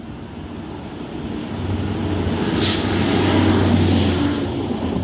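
Northern Class 195 diesel multiple unit (195001) passing under the bridge. Its steady low engine drone and running noise build to a peak about three and a half seconds in, then fade. A short sharp noise cuts in about two and a half seconds in.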